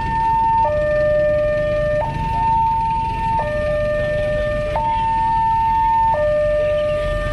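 Railway level-crossing warning alarm sounding a steady two-tone hi-lo signal, a low tone and a higher tone alternating about every second and a half, over a low rumble.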